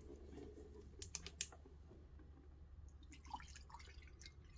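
Faint clicks, ticks and a few drips of water as water is measured into a measuring cup.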